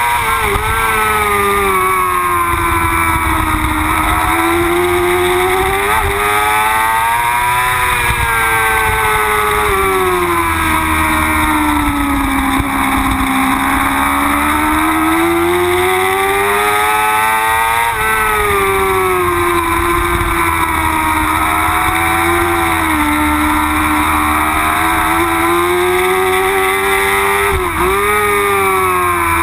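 Yamaha R6 race bike's 600cc inline-four engine at high revs on track, its pitch climbing and falling as the throttle opens and closes through the corners, with a few quick dips at gear changes.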